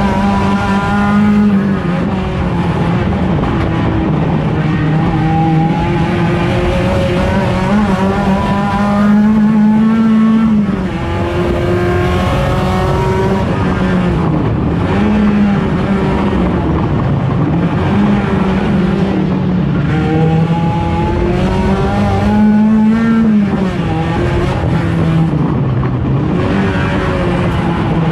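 Race car's 1.6-litre engine running hard on track, its pitch climbing through each gear and dropping back at shifts and braking, over and over.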